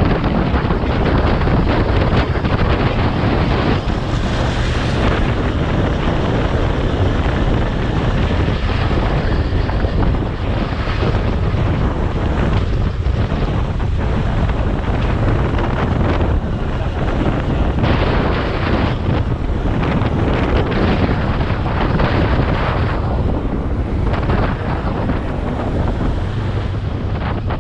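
Wind buffeting the microphone of a motorcycle riding at speed, with the engine and road noise underneath.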